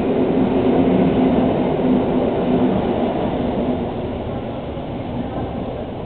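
Passenger train running on the rails, a steady rumble with a faint hum, slowly fading over the last couple of seconds.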